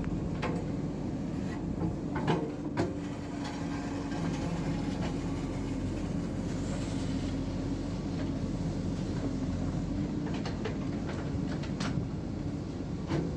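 JCB 3DX backhoe loader's diesel engine running steadily, with a few sharp knocks: two close together about two and a half seconds in and more near the end.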